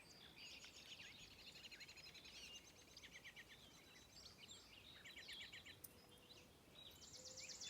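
Faint birdsong from several small birds: quick chirps and rapid trills. A steady, rapid buzzing trill comes in near the end.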